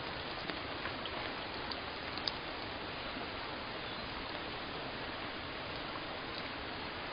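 Steady rainfall: an even hiss of rain with a few separate drops ticking through it.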